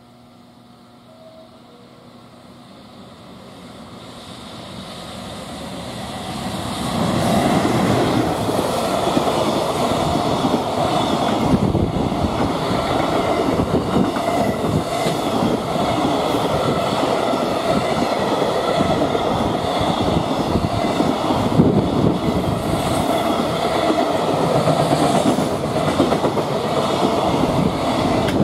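A freight train hauled by an EF210 electric locomotive approaching and running through a station. The sound builds over the first several seconds, then the container and tank wagons rumble past steadily with rhythmic clacking of wheels over the rail joints.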